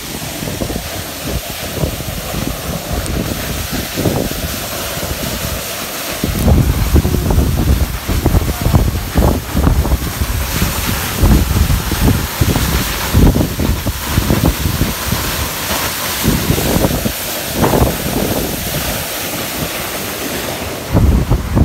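Janji waterfall rushing as a steady hiss, with wind buffeting the microphone in heavy, irregular low gusts from about six seconds in.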